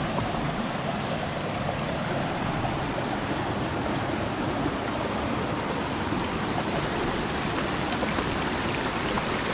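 Steady rushing of a jungle waterfall and its cascading stream.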